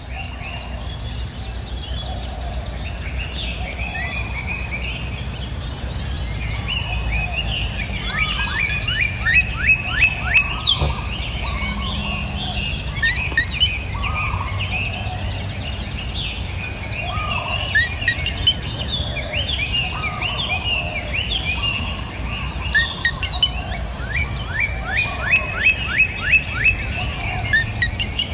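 Several songbirds chirping and singing, with repeated runs of quick descending notes, over a steady high-pitched tone and a low background rumble.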